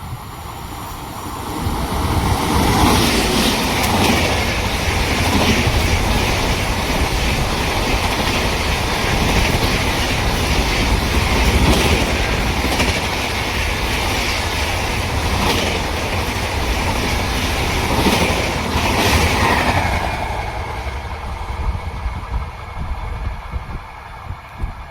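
A train passing at speed, its wheels clattering over the rail joints; the sound builds about two seconds in and dies away near the end.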